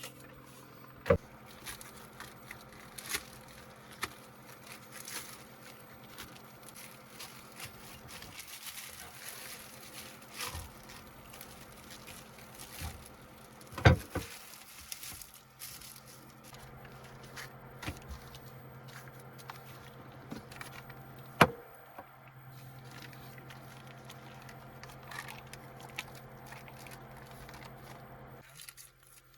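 Food-prep handling sounds: plastic packaging crackling and scraping, with a few sharp knocks and clinks, the loudest about a second in, near the middle and about two-thirds through. A steady low hum runs underneath.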